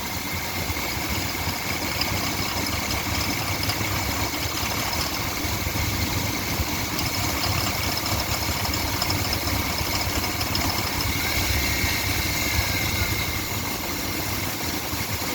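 2012 GMC Yukon's 5.3-litre V8 idling steadily in drive, with a thin steady high-pitched whine over the engine drone.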